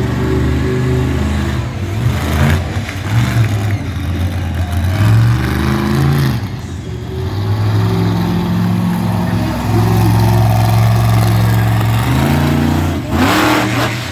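Big monster truck engine running loud, revving up and easing off several times, with its steepest, loudest rev near the end.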